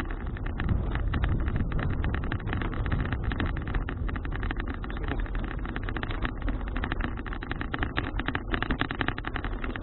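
Wind rushing over an action camera's microphone on a moving bicycle: a steady low rumble with rapid crackling.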